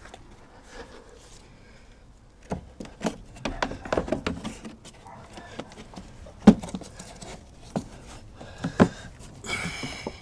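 Plastic cabin-filter housing parts being handled and fitted back into place: a run of irregular knocks, clicks and rattles, with one sharp click about six and a half seconds in and a short plastic scrape near the end.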